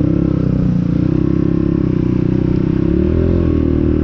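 SMZ Cross X 250 SE dirt bike engine running under way. The revs climb back up in the first second and dip and recover again about three seconds in, as when shifting gear.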